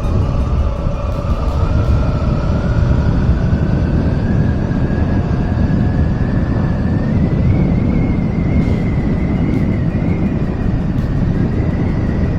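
Motorcycle riding at road speed: steady engine and wind rush, with a whine that rises gradually in pitch for about seven seconds as the bike picks up speed, then holds.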